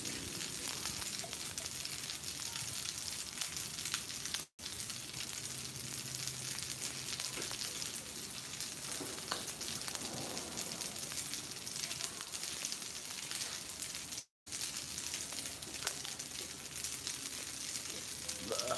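Spaghetti and a melting pat of butter frying on a hot Blackstone flat-top griddle: a steady sizzling hiss with fine crackling pops. The sound cuts out for an instant twice.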